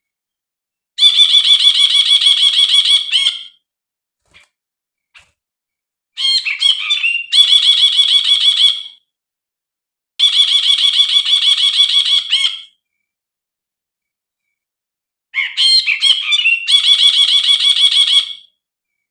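Brinji, a bulbul, singing. Four phrases of rapid repeated notes, each about two to three seconds long, come with silent gaps between them. The second and fourth phrases open with a short run of varied, tumbling notes.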